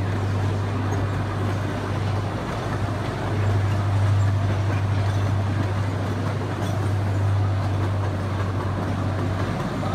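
Bonfante Railroad amusement-park train running along its track, heard from an open passenger car: a steady low drone over a haze of running noise. The drone drops away briefly about two and a half seconds in and again just before the end.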